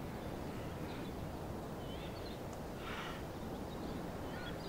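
Outdoor ambience: a steady low background rumble with faint, scattered chirps of small birds, and a short breathy hiss about three seconds in.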